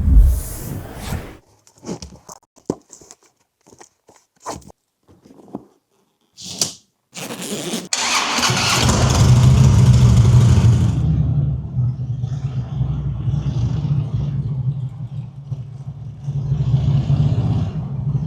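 A motorcycle engine starts about eight seconds in, rises briefly, then settles into a steady idle. Before that come scattered short clicks and rustles.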